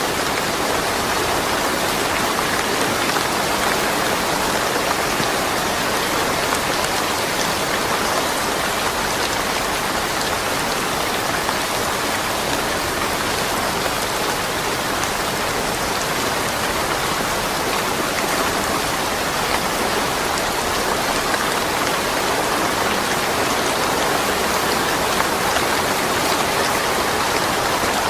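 Steady rain falling, an even hiss of many drops that holds level throughout, with no thunder.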